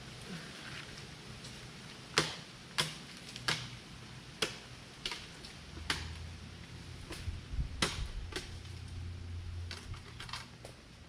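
A series of sharp knocks, about a dozen irregular strikes roughly half a second to a second apart, starting about two seconds in.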